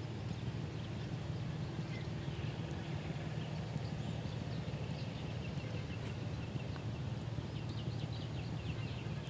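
Small birds chirping faintly, with a quick run of high chirps near the end, over a steady low rumble of background noise.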